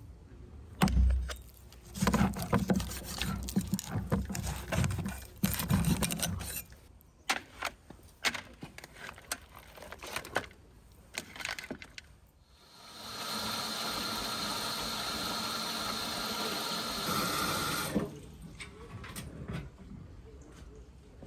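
Scattered knocks and clatter of handling, then water running in a steady rush for about five seconds that cuts off suddenly.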